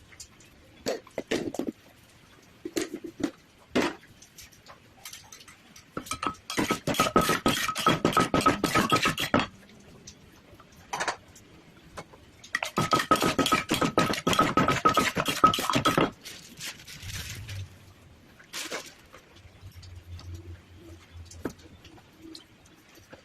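Kitchen utensils clinking and scraping against a dish: a few separate knocks, then two long runs of rapid clatter, each a few seconds, with a ringing note through them.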